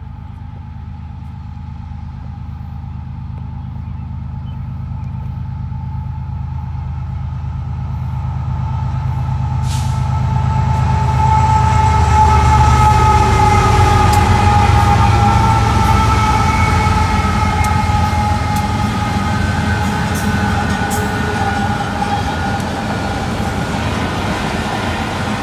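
BNSF freight train with diesel locomotives approaching and passing, the engine rumble growing louder to a peak about halfway through as the locomotives go by, then the rattle of the following autorack cars. Several steady high tones sound together over it for most of the time.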